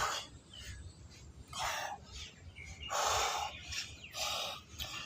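Birds calling: three harsh, rasping calls in a row, with a few faint short chirps between them.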